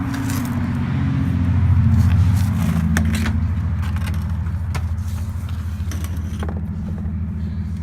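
Honda Accord engine idling through a muffler-deleted exhaust: a steady low drone that swells briefly about two seconds in, then settles back. A few light clicks sound over it.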